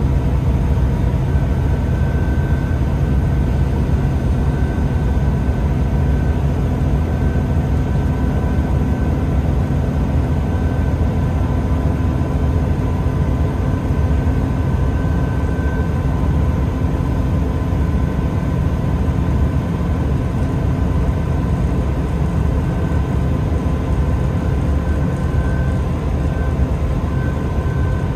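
Interior of a Class 166 Turbo diesel multiple unit running at speed: a steady low rumble from the underfloor diesel engine and the wheels on the rails, with a steady whine and a higher tone that fades in and out.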